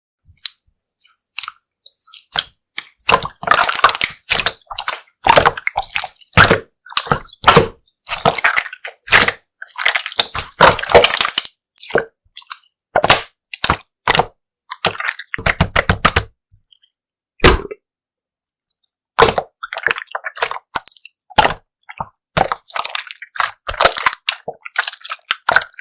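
Clear slime squished and pressed by hand, giving irregular runs of sharp wet clicks and pops from trapped air, with a short pause about two-thirds of the way through.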